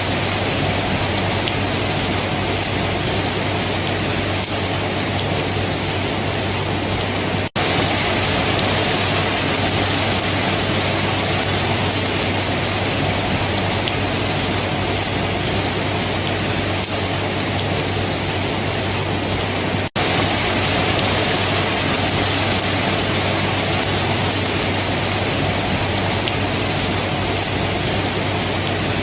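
Steady, dense rainfall with an even hiss and a low hum underneath, broken twice by a split-second dropout, about a third of the way in and again about two-thirds of the way in.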